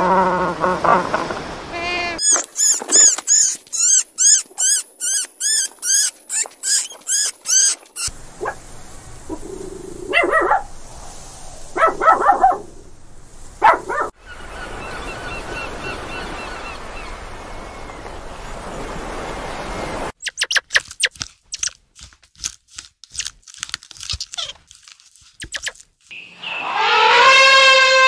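A string of different animal sounds one after another. It opens with Magellanic penguins braying, then rapid high chirps repeated a few times a second, more calls, a stretch of hiss and a run of sharp clicks. Near the end an elephant trumpets loudly.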